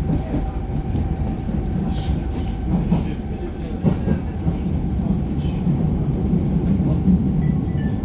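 First-generation Brussels metro train running, a steady low rumble of motors and wheels on the track. A thin steady whine fades out about a second in, and faint clicks come through now and then.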